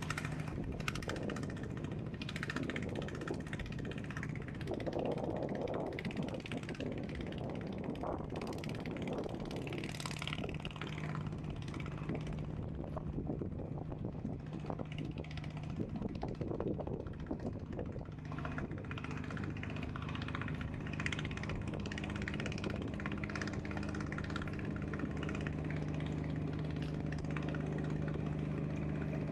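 An engine running steadily nearby, a low hum with a constant pitch that grows stronger in the second half, over outdoor ambience with scattered clicks and knocks.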